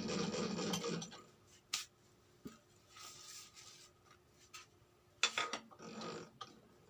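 Workshop handling sounds while a cylinder-boring job is set up: a few sharp metallic clicks and knocks, with short stretches of rubbing and scraping in between. A denser noise cuts off about a second in.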